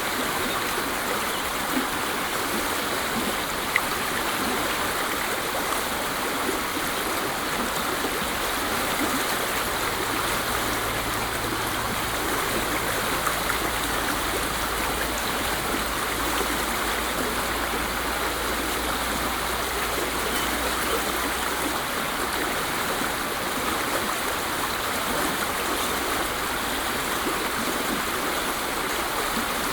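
Waterfall rushing steadily, an even unbroken noise of falling water, with a faint low rumble underneath for about ten seconds midway.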